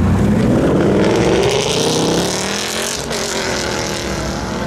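Ford Mustang GT convertible's 5.0-litre V8 accelerating hard away, the exhaust note rising steadily in pitch for about two and a half seconds, then easing off and fading as the car moves away.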